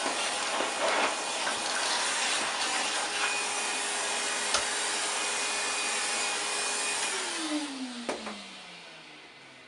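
Vacuum cleaner motor running steadily with a constant whine, then switched off about seven seconds in, its pitch falling as the motor winds down and fades. A single knock comes during the run-down.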